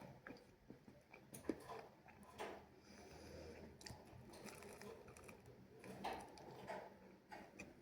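A person chewing and biting into a French tacos, with soft crunches and wet mouth clicks.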